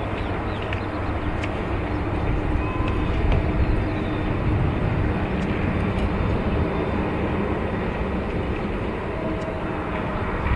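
Jet airliner engines heard across an airfield: a steady rumbling noise that holds level, without a clear rise or fall.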